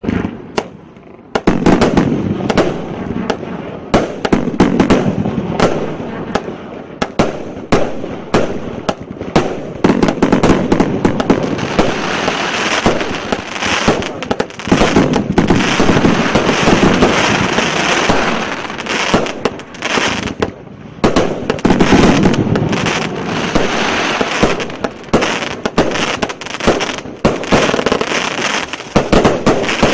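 Fireworks display: a dense, unbroken run of bangs and crackling that builds up within the first two seconds and keeps going, with louder flurries of shots.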